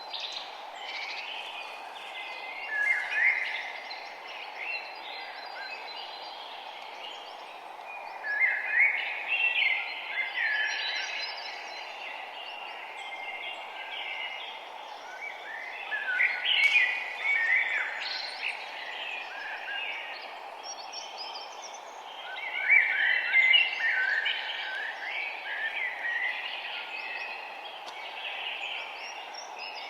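Several songbirds chirping and singing in short, overlapping phrases, with louder bursts of song every few seconds, over a steady low hiss of outdoor background noise.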